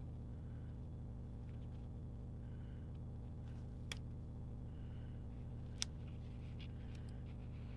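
Steady low hum with two sharp clicks, about four and six seconds in, typical of handling paper, stickers and tape on a desk.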